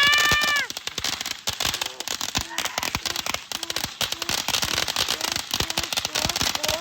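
Ground firework burning with a dense, rapid crackle, like many tiny firecrackers going off. A short rising tone sounds right at the start.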